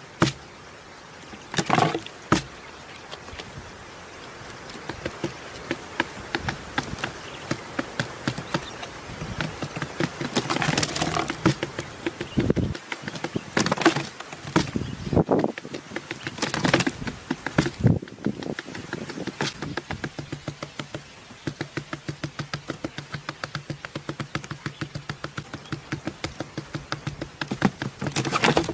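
A buzzing like an insect's, with many sharp clicks and knocks; from about two-thirds of the way through it settles into a steady low hum with fast, regular pulses.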